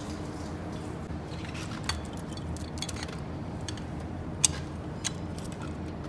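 Scattered metallic clicks and clinks of tools and engine parts being handled, the sharpest about four and a half seconds in, over a steady low hum.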